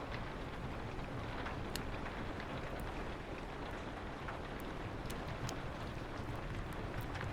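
Steady rain with a low wind rumble, over a fireplace crackling: sharp wood pops about once a second.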